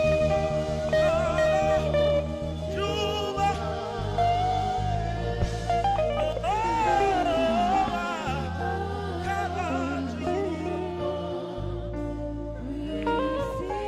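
Saxophone playing a slow gospel worship melody, with sliding, bending held notes, over backing instruments holding long low notes.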